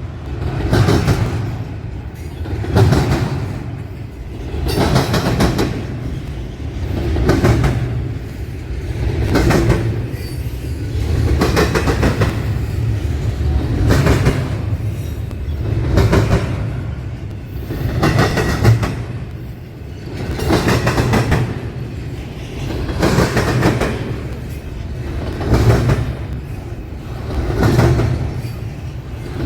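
Train cars rolling through a railroad crossing diamond, the wheel clatter swelling and fading about every two seconds as each car passes over the crossing.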